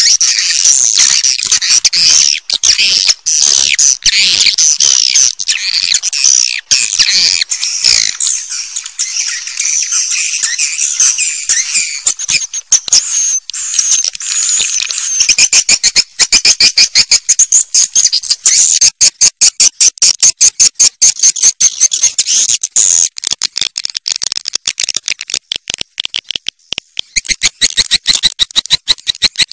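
Swiftlet call recording of edible-nest swiftlets. A dense, shrill twittering chatter comes first; from about halfway it gives way to a fast, even train of sharp clicks, about four a second.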